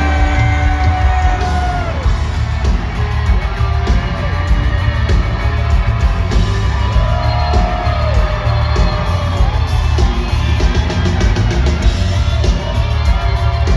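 Live country-rock band playing loud through a concert PA, with heavy bass and a steady drum beat under held notes that swell and fall away. Crowd yells and whoops come through over the music.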